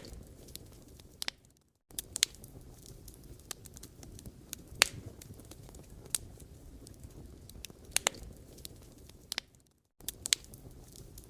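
Firewood burning with a low steady rush and scattered sharp crackles and pops from the wood. The sound drops out briefly twice.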